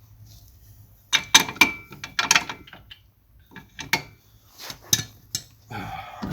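Metal hand tools clinking and clattering in quick groups of sharp clicks, with a short scraping rattle near the end.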